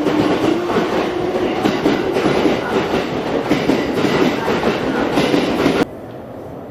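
Running noise inside a Tokyo Metro 5000 series subway car: wheels clattering over rail joints with a low hum underneath. It cuts off abruptly near the end, giving way to a quieter, even background noise.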